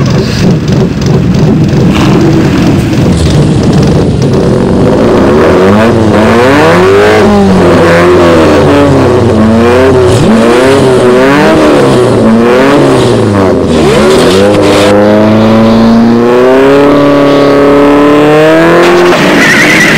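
Sports car engines accelerating hard through the gears. A rough rumble opens, then the engine pitch climbs and falls about once a second as each gear is taken, ending in two longer rising pulls near the end.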